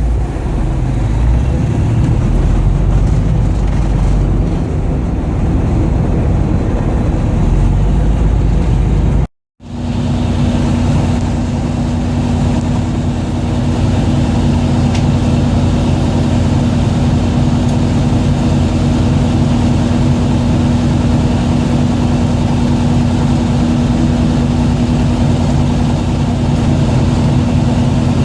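Fishing boat's engine running steadily, a loud low drone. It cuts out completely for a split second about nine seconds in; after that a steady low hum runs along with it.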